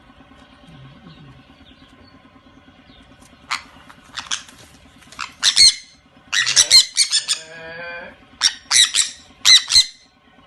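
A parrot squawking: a string of short, loud, shrill calls starting a few seconds in, some coming in quick clusters, over a faint steady hum.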